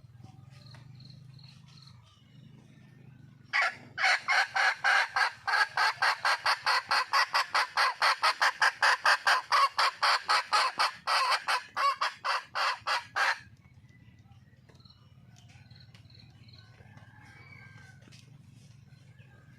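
Junglefowl hen cackling: a rapid run of loud clucks, about four a second, starting about three and a half seconds in and stopping suddenly after nearly ten seconds. It is a wild hen calling for a mate. Faint insects chirp before and after.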